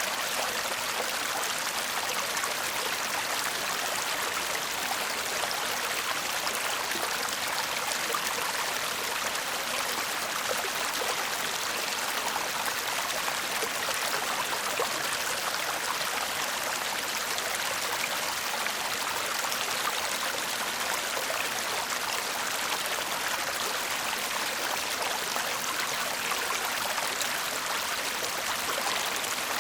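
Shallow stream babbling steadily over stones, a continuous rushing hiss with fine splashing and trickling.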